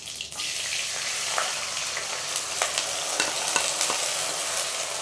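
Ginger-garlic paste dropped into hot oil in a kadai, sizzling and frying. The sizzle starts suddenly about a third of a second in and holds steady, with scattered sharp clicks through it.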